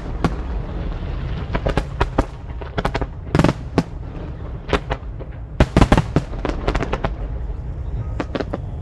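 Aerial fireworks shells bursting in rapid succession: sharp cracks, some in quick clusters, over a continuous deep rumble of booms. The busiest volleys come in the middle, about three and a half seconds in and again around six seconds.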